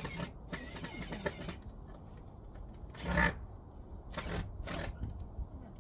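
Short bursts of scraping and clattering as the heat pump's roof cover is handled and fitted, the loudest about three seconds in.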